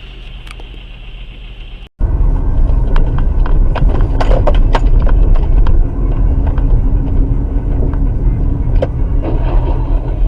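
Car road and engine noise picked up by a dashcam. After a quieter stretch it cuts, about two seconds in, to a louder steady rumble with a run of sharp knocks and rattles, then a few more knocks later on.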